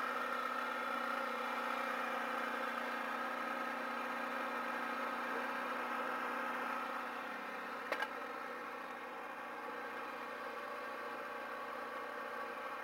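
2009 Kawasaki ZX-6R's inline-four engine running at a steady speed, easing off slightly a little past halfway. A short click about eight seconds in.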